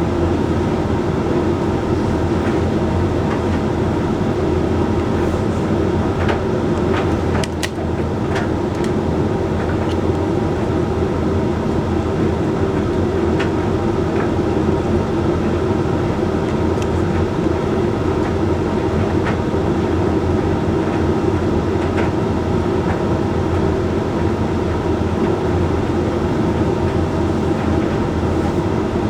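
Hoover Link X Care HLX C10DRGR condenser tumble dryer running mid-cycle: a steady hum of the motor and fan with the drum tumbling the load, and faint light clicks now and then.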